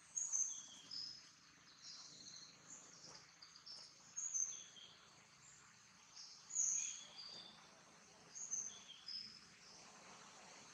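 Birds chirping: short, high notes in little bursts every second or two, over a faint steady outdoor hiss.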